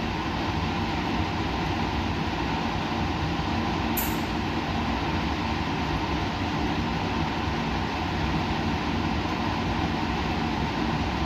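Steady laboratory background noise: an even rumble and hiss with a constant low hum, unchanging throughout. There is a brief faint high tick about four seconds in.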